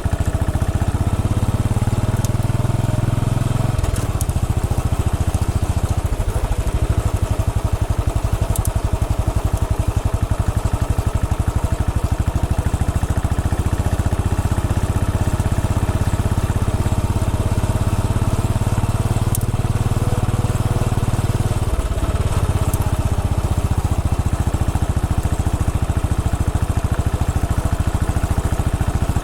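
Royal Enfield Bullet 500 EFI's single-cylinder engine running steadily under way, a fast even beat of firing pulses, with a brief dip in the engine note about 4 seconds in and again about 22 seconds in.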